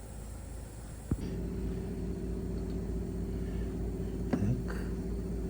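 A click, then a steady machine hum starts up and keeps running, with two short knocks over it about three seconds later.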